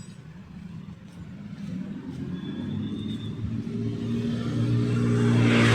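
A motor vehicle's engine drawing near, growing steadily louder and loudest near the end as it passes close.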